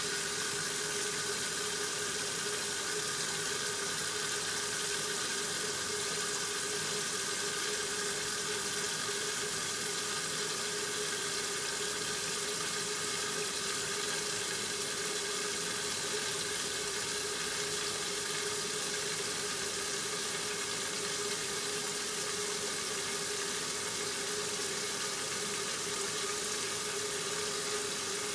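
1969 Westinghouse washing machine running mid-cycle: a steady rushing of water with a constant tone from the machine underneath.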